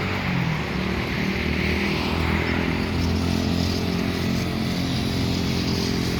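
Airplane engines at takeoff power as the aircraft climbs away: a steady drone with a low hum underneath.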